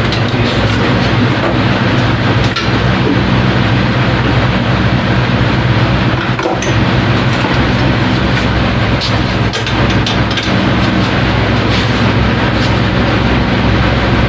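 A steady, loud low machine hum with an even pitch, joined by a few light clicks and knocks.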